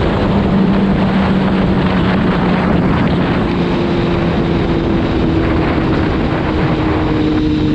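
Sport motorcycle engine running at steady high revs under heavy wind rush, its note sinking slowly in pitch.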